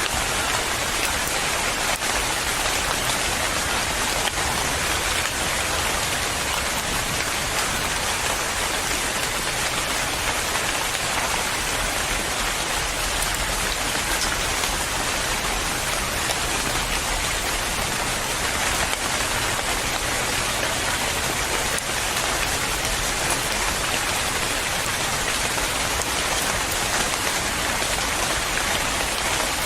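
Steady rain falling, a dense even patter of drops on a surface with no thunder.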